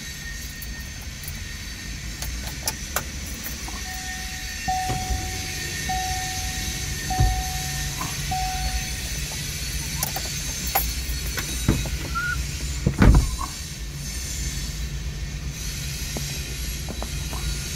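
Freight train of open-top hopper cars rolling past: a steady low rumble with scattered clicks and clanks from the wheels and cars, the loudest a single heavy clank about 13 seconds in. A run of five short, even tones sounds between about 4 and 9 seconds in.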